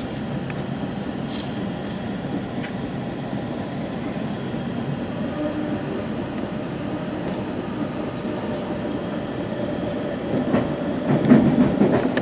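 West Coast Express commuter train running along the track, heard from inside a passenger coach: a steady rumble that swells with louder wheel clatter in the last couple of seconds.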